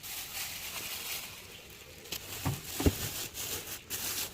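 Food containers and packets being handled and set into a refrigerator's bottom drawer: a rustling, then two soft knocks about two and a half seconds in.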